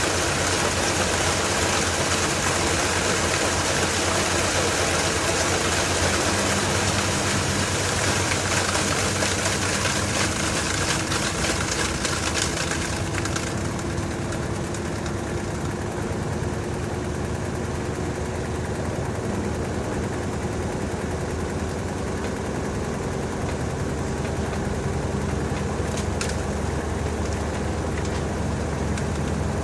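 LG TurboDrum top-load washing machine running with a load of bedding, its motor whine slowly rising in pitch as the drum gathers speed. A rush of water runs alongside it and cuts off about 13 seconds in.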